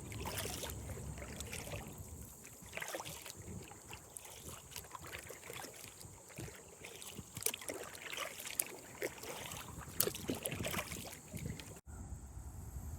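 Kayak paddling: irregular splashes of the paddle blades in the water, with a few sharp knocks. It cuts off about a second before the end and gives way to a steady hush.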